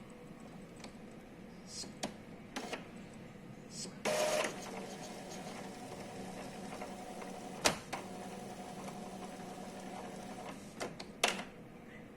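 Epson L3150 inkjet printer's mechanism running through its power-on cycle: a few clicks, then a sharp burst about four seconds in, followed by the motor running steadily for about six seconds with a single click partway through and another short burst near the end. At this stage the cycle is still running normally, before any jam.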